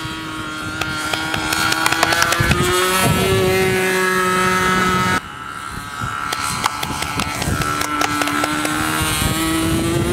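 Glow engine of a .60-size radio-controlled model airplane in flight, its pitch rising and falling as the plane passes and changes throttle, with many sharp clicks over it. The sound cuts down suddenly about five seconds in and then builds again.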